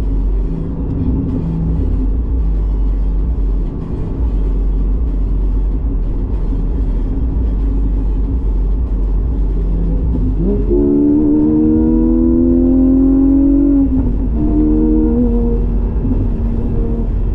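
Porsche 718 GTS 4.0's naturally aspirated flat-six through a Kline stainless exhaust with the valves open, running at a steady cruise with a low drone. About ten seconds in the revs jump sharply, then sag slowly over a few seconds before settling to a steady pitch.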